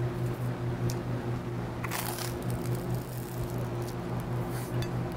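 Someone biting into and chewing a piece of toasted bread topped with tuna, with a few crisp crunches about two seconds in and again near the end, over a steady low hum.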